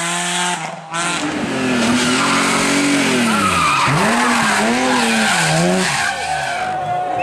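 Rally car engine at hard throttle: held at a steady high pitch for about a second, then rising and falling again and again as the driver works the throttle and gears through corners, with tyres skidding.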